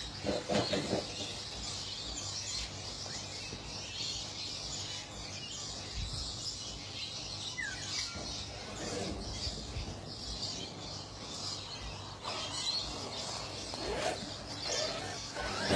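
Outdoor background with birds chirping faintly over a steady hiss.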